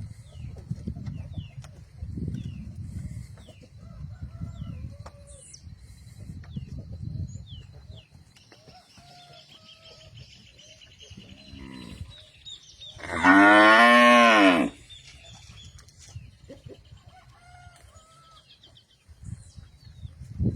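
A cow mooing: one long, loud moo about thirteen seconds in, just after a shorter, fainter call. Short high chirps from small birds come and go throughout.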